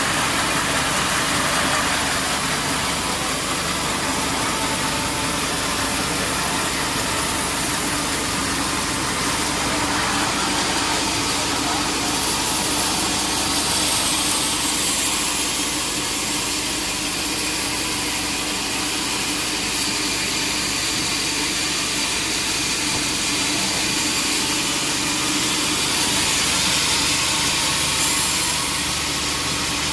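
Sawmill machinery running steadily: a dense, constant motor noise with a few steady hums.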